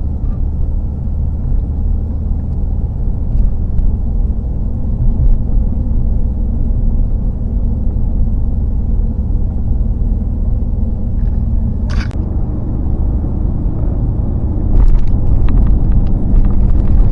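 Vehicle driving with a steady engine and road rumble. There is a sharp click about twelve seconds in, and near the end the rumble gets louder with several knocks and rattles.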